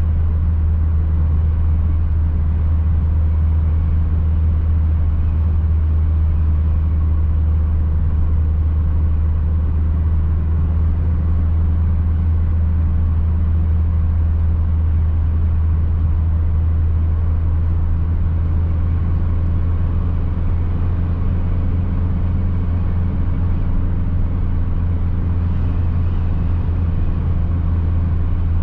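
A 1988 BMW M3's S14 four-cylinder engine pulling at a steady speed, heard from inside the cabin as an even low drone with road noise. There is no revving or shifting.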